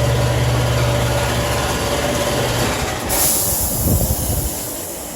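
A steady low machine hum in a paint and body shop stops a little before halfway, then a loud hiss of air starts about three seconds in and fades over a second or so.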